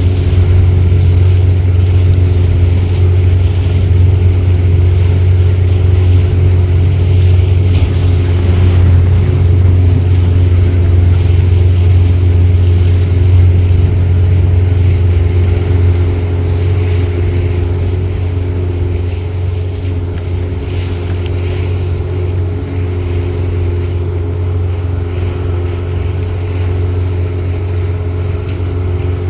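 Boat motor running steadily, a loud low drone with a steady hum above it, easing a little in level about halfway through.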